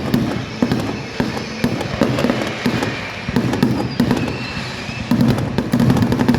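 Aerial fireworks going off in quick succession: a dense run of bangs and crackles, several a second.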